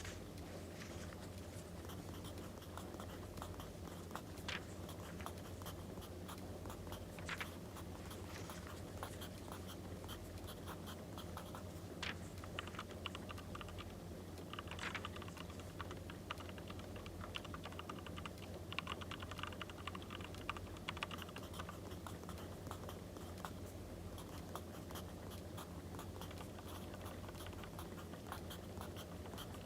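Pen or pencil writing on paper in scratchy stretches, with scattered small clicks and crackles over a steady low hum.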